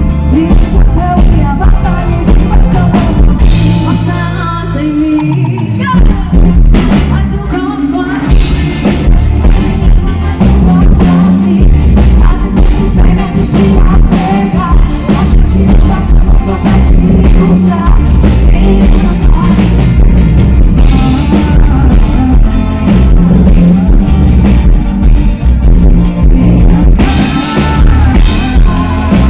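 Live amplified band playing pop-rock, with a singer over a steady beat. The band thins out briefly about five seconds in, then comes back in full.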